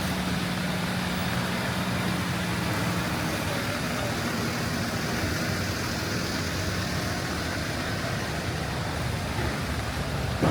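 A motor vehicle's engine idling with a steady low hum, one tone of which fades after about three seconds, over the continuous hiss of rain and wet-street traffic.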